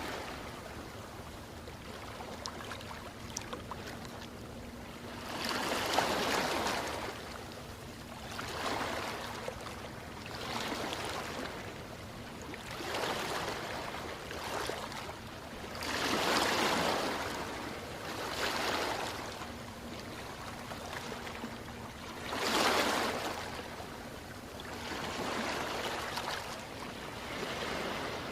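Ocean waves breaking and washing up the shore, the surf swelling and falling away every two to three seconds, with a couple of bigger waves among them.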